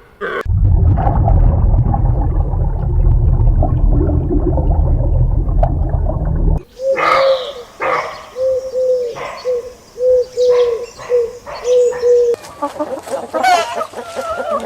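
Pigeons cooing: a run of short, low, repeated coos in the middle of the stretch. Before them is a loud low rumble lasting about six seconds, and hens clucking come in near the end.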